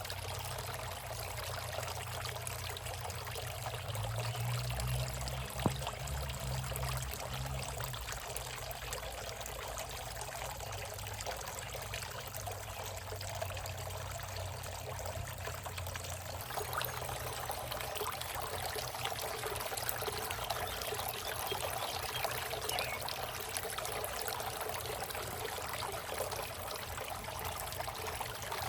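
Solar-powered water fountain running, its water trickling and splashing steadily into the basin, with a low hum underneath for the first half and a single sharp click about six seconds in.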